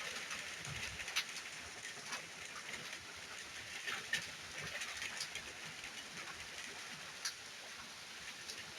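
Rain falling steadily in a summer rainstorm, a continuous hiss, with now and then a louder single drop ticking on a nearby surface.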